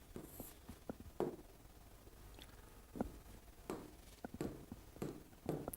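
A quiet pause with a few faint, scattered short clicks.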